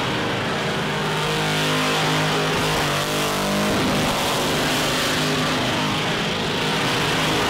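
Car engine held at high revs during a burnout, running steadily with the revs wavering briefly about three seconds in.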